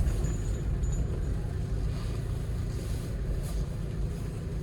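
Hyundai Porter II truck heard from inside the cab while driving: a steady low engine and road rumble.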